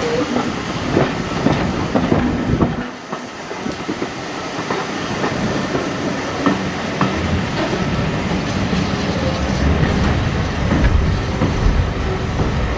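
British Railways Mk1 passenger coach running along the line, its wheels clicking over the rail joints amid steady running noise and rattles, easing briefly about three seconds in.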